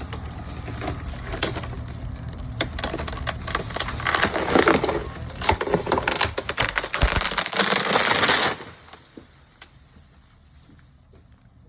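Tree trunk splitting lengthwise in a barber chair during felling: a run of cracking and splintering wood that builds to its loudest over the last few seconds and stops abruptly about eight and a half seconds in, over a low steady hum.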